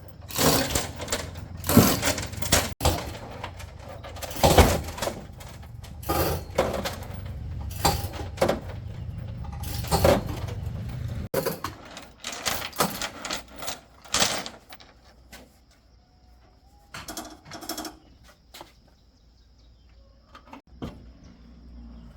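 Metal parts and hand tools clinking and knocking in irregular quick strokes during mechanical repair work, busy at first and then sparse after about 14 seconds.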